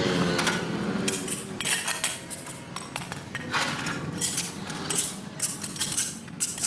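A hand tool scraping and knocking on the pavement in irregular strokes, with clinks.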